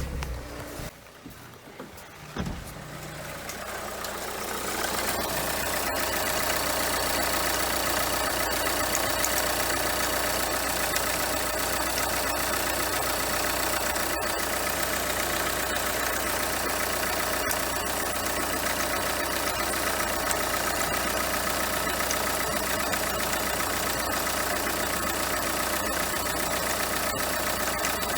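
Renault Kangoo 2's 1.5 dCi diesel engine started about two seconds in, then idling steadily with a few faint sharp ticks. The owner is chasing a metallic, jerky chirping from the alternator, which he later traces to a worn alternator overrunning clutch pulley with heavy play.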